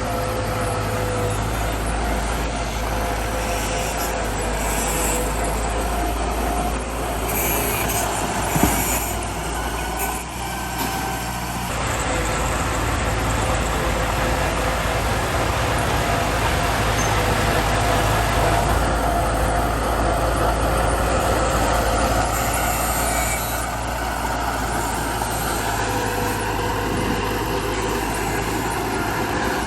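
Heavy diesel machinery of a bulldozer and dump trucks running steadily, with a few short hisses and a single sharp knock about nine seconds in.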